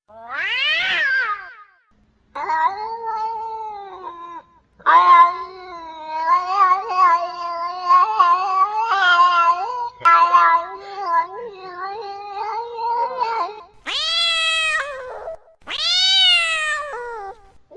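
Domestic cat in heat caterwauling: a short call, then long, wavering, drawn-out yowls with brief breaks, and two louder, higher-pitched calls near the end.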